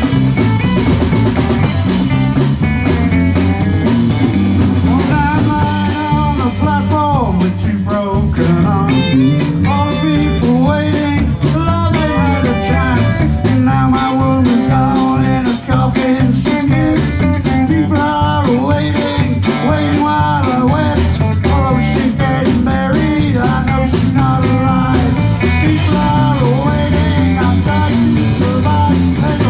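Live blues-rock band playing an instrumental passage: electric lead guitar playing lines with bending notes over bass guitar, drum kit and percussion.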